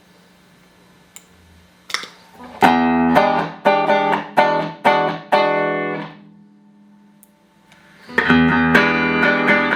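Electric guitar played through a Boss GE-7 equalizer pedal into Roland JC-120 amps. A faint amp hum leads into a run of short, rhythmic chord stabs, then a pause of about two seconds, and the chords start again near the end.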